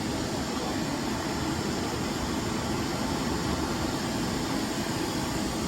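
TransPennine Express train standing at a station platform with its machinery running: a steady hum under an even hiss that stays level throughout.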